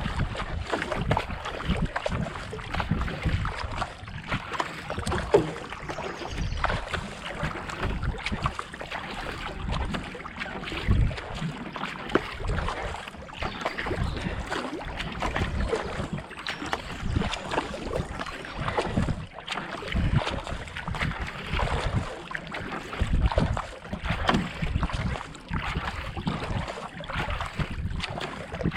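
Kayak paddle blades dipping and pulling through canal water in a steady racing rhythm of about 70 to 80 strokes a minute, with splashes and drips on each stroke. Wind buffets the camera microphone.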